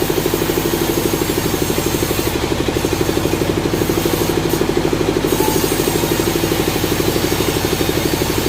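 An engine running steadily at an even speed, with a rapid regular pulse of about ten beats a second.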